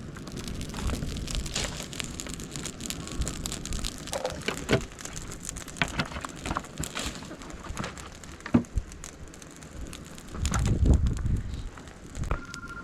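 Wood fire crackling, with scattered sharp pops and snaps and a louder low rumble about eleven seconds in. A mobile phone ringtone, a repeating electronic beep, starts just before the end.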